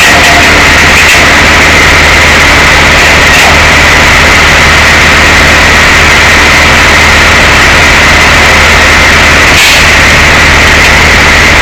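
Tow truck's engine running steadily and very loud, with a constant low drone and a hiss of road and cab noise over it.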